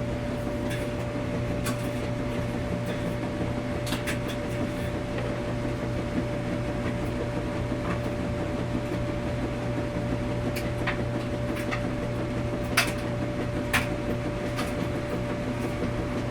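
Washing machine running with a steady hum and a constant mid-pitched tone, with scattered light clicks and knocks, several close together about two-thirds of the way through.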